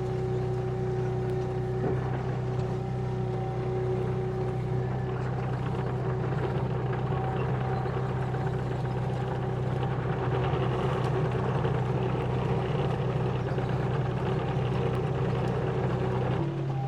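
An engine running steadily at a constant speed, its pitch shifting slightly near the end.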